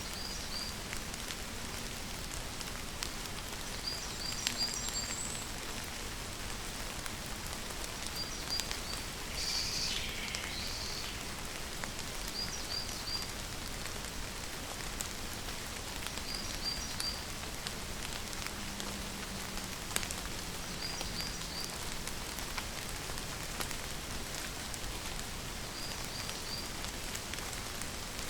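Steady rain falling, an even hiss. Over it, a bird repeats a short, high three-note chirp about every four seconds, with one longer call that falls in pitch about ten seconds in.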